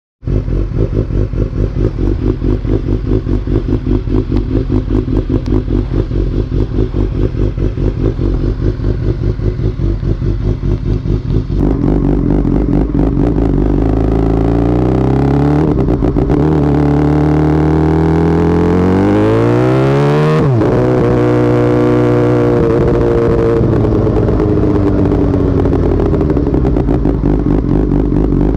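Motorcycle engine idling with an even, pulsing beat, then pulling away and accelerating. Its pitch rises, drops back twice at the gear changes, then settles to a steady cruise.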